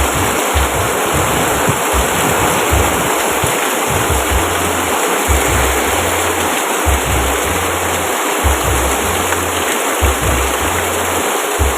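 Steady, dense rainfall, an even hiss of falling water, with a low drone coming and going underneath.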